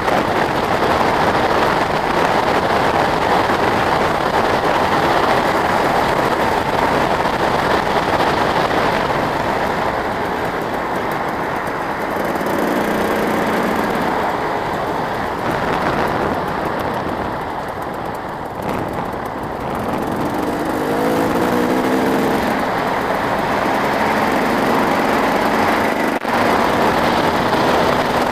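Motocross motorcycle engines running and revving, their pitch rising and falling as bikes accelerate and pass.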